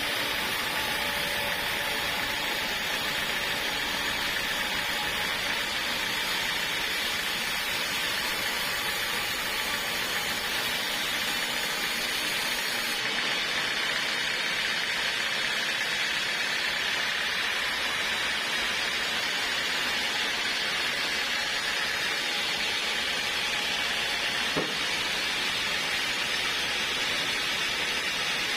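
Portable sawmill running with a steady, unbroken hiss-like noise, with a single faint knock a few seconds before the end.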